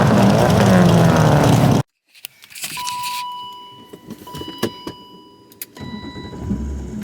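A drift car's engine revving hard, its pitch rising and falling, then cut off abruptly about two seconds in. After that, a quieter stretch with a steady high electronic chime that sounds twice, with scattered clicks and knocks.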